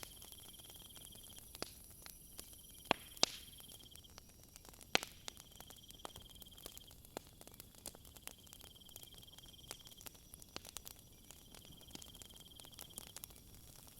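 Wood fire crackling, with scattered sharp pops, the loudest about 3 and 5 seconds in, over a bed of night insects such as crickets trilling. The high-pitched trill comes and goes in stretches of a few seconds.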